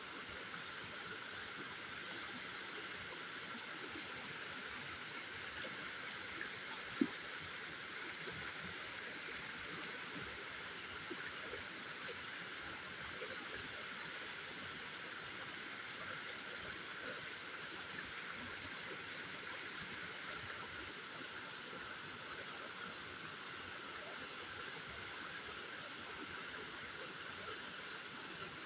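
Steady rain, an even wash of noise with many faint small patters, and one sharp knock about seven seconds in.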